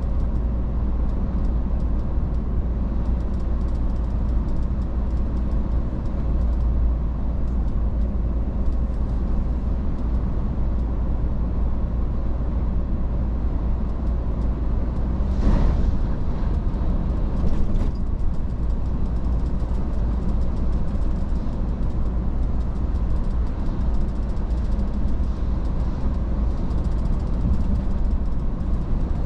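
Iveco S-Way truck driving along with a steady low engine and road rumble. About halfway through comes one brief whoosh.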